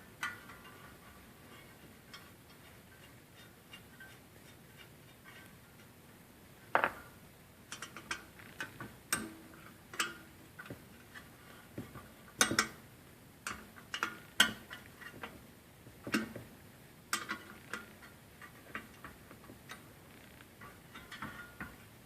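Irregular metallic clicks and clinks of hand tools: a wrench working the fasteners of a Jeep Cherokee XJ's engine-cooling fan and fan clutch, with a few sharper knocks between quieter ticks.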